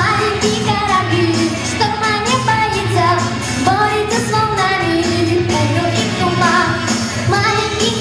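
A female voice singing a melody over a pop backing track with a steady bass line.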